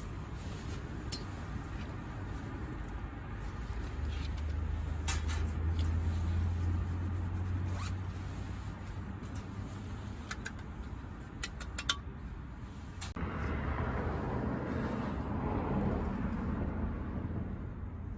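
Tent pitching: scattered sharp clicks, then a rasping stretch of a few seconds starting about two-thirds of the way in, typical of a tent zipper being drawn and fabric handled. A low rumble runs underneath, louder for a few seconds early on.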